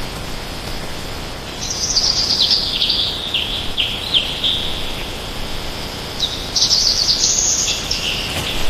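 A songbird singing two phrases of rapid high notes that step downward in pitch, the second phrase starting a few seconds after the first. A steady background hiss runs underneath.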